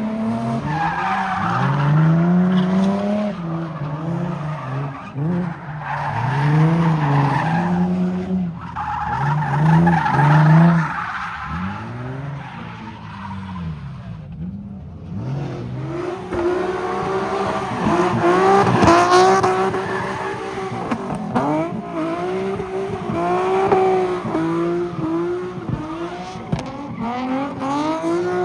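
Car engine revving up and down over and over while its tires squeal and skid, as a car spins in a car pit. The squealing comes in bands during the first half, there is a brief lull about halfway, and then the revving goes on in quick rises and falls.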